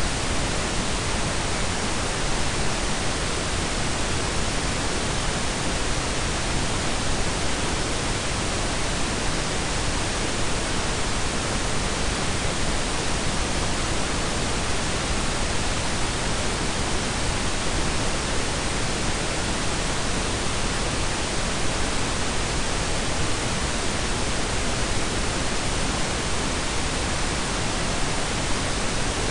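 Steady blend of pink and brown noise: an even, unchanging hiss with a deep rumble underneath.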